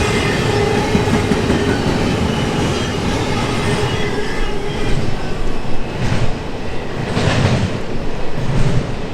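Intermodal container cars of a freight train rolling past: a steady rumble of steel wheels on rail, with a faint wheel squeal at first. From about six seconds in, a clatter repeats roughly every second and a quarter as wheel sets cross the rail joints.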